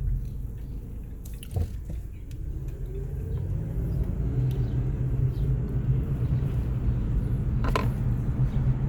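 Steady low rumble of a car driving, heard from inside the cabin, with a couple of brief clicks, one about a second and a half in and one near the end.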